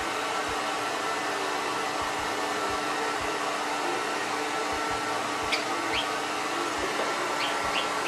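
Hair dryer running steadily with an even hiss and hum. In the second half a Java sparrow gives a few short, high chirps over it.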